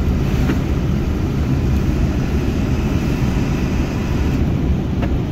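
Steady low rumble of a 2000 Ford F350's 7.3-litre V8 turbo diesel and road noise, heard from inside the cab while driving.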